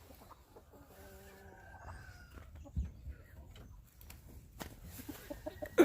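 Young chickens calling, with one drawn-out call about a second long about a second in. A dull thump follows near three seconds in, and a sharp knock near the end is the loudest sound.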